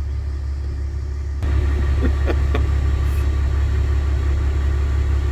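Vehicle engine idling with a steady low hum that gets louder about a second and a half in, with a few light clicks shortly after.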